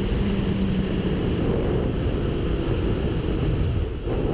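Motorcycle riding at speed, its engine running under heavy wind rush on the microphone.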